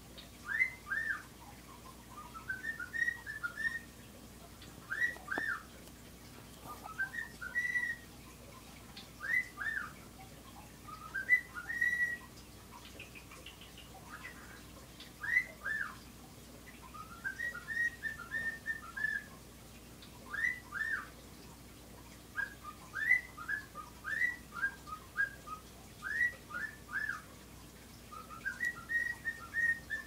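Pet bird whistling: short, clear whistled notes that rise and fall, often in pairs or quick little runs, repeated every second or two.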